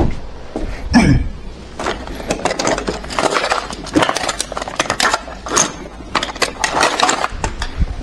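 Hard objects clattering and clinking in a quick, irregular flurry of clicks and knocks, with a heavier thud about a second in. The clicking is busiest through the middle of the stretch.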